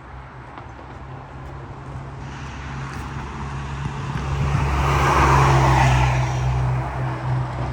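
A large road vehicle passing by: a steady low engine drone with tyre noise that builds to its loudest about five seconds in, then fades.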